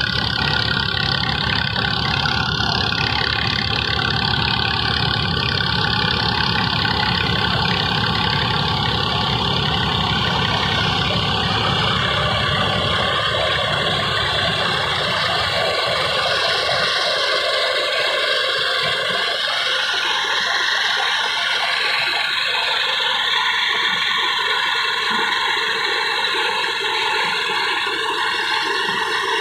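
Tractor engine running steadily while driving a thresher, a constant mechanical drone with a steady whine above it. The deep low rumble falls away about halfway through while the higher machine sound carries on.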